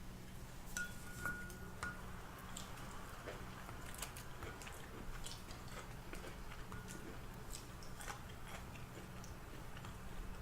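Eating fried chicken: chewing, with scattered small clicks of cutlery on a plate, over a steady low hum.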